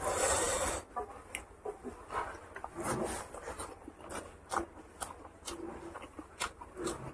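Close-up eating sounds: a person chewing a mouthful of rice and pork curry with wet mouth clicks and lip smacks, opening with a brief noisy rustle of food being mixed or taken into the mouth.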